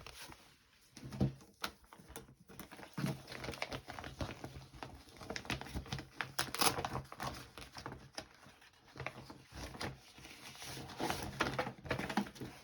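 Paper rustling and shuffling, with irregular light taps and crinkles, as pieces of paper and ephemera are handled and laid on a journal page.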